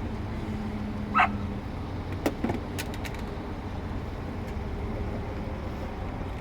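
A vehicle running steadily, with a single short dog bark about a second in and a few sharp clicks between two and three seconds in.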